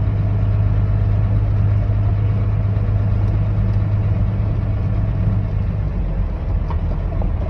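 Old truck's engine running steadily as it drives a dirt off-road trail, a loud low drone with road noise; the engine note drops lower about five and a half seconds in.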